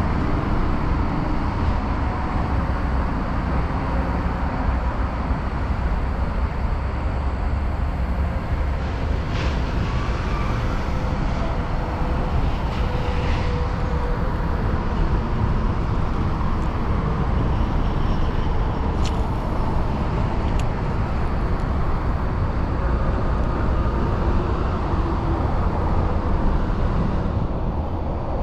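Steady outdoor rumbling noise, heaviest in the bass, with a few faint clicks along the way.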